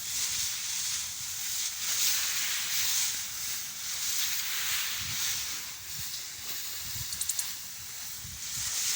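Steady high hiss of a tractor-powered crop sprayer spraying, rising and falling every second or so. A short run of quick ticks comes near the end.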